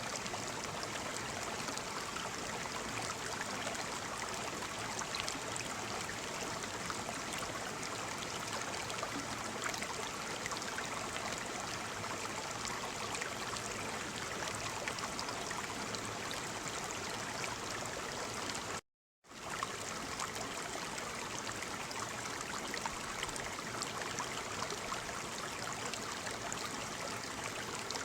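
Waterfall: a steady rush of falling water. It cuts out completely for about half a second about two-thirds of the way through, then resumes.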